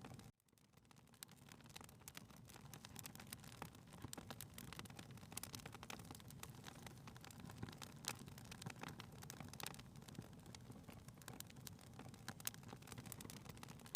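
Faint crackling of a log fire in a fireplace: irregular pops and snaps over a low steady rumble. The sound drops out abruptly just after the start and swells back within about a second.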